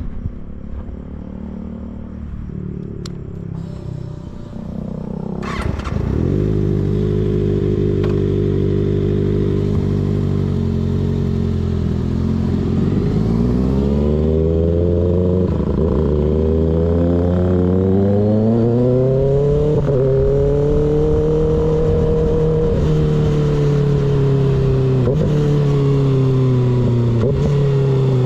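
Motorcycle with an unbaffled M4 slip-on exhaust, riding: the engine is quieter for the first few seconds, then louder from about six seconds in. After that it accelerates, its pitch climbing and dropping back at several gear changes.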